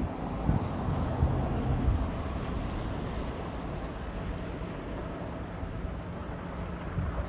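Diesel freight locomotive engine running, a steady low drone, with wind buffeting the microphone.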